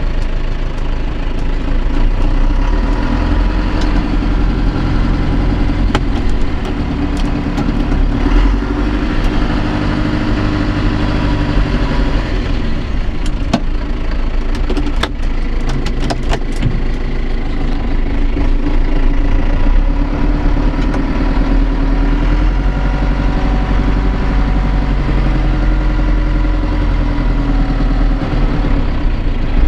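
John Deere 2850 tractor's diesel engine running steadily, its pitch rising and falling slightly. A few sharp clicks come about midway.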